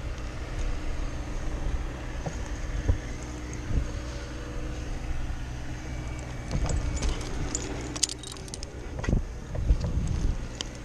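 An engine running steadily in the background, with metal gear clinking and jingling about seven to eight seconds in, and a few dull thumps.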